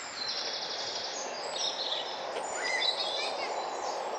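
Several small birds singing, overlapping whistled notes and a fast trill, over steady outdoor background noise.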